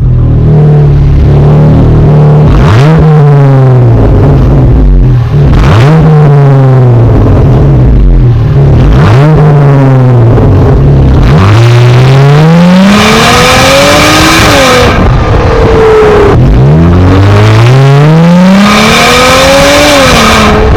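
Jeep Wrangler JL's 3.6-litre V6 through an aftermarket exhaust, idling and blipped several times. Three short revs come first, then two longer revs that climb high and fall back, with a raspy edge at the top.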